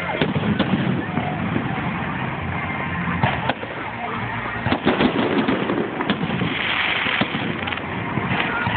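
Fireworks display: aerial fireworks going off in an irregular series of sharp bangs and cracks, thickest around three to five seconds in.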